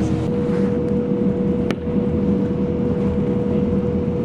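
A motor running steadily, with a constant hum over a low rumble; a single sharp click about a second and a half in.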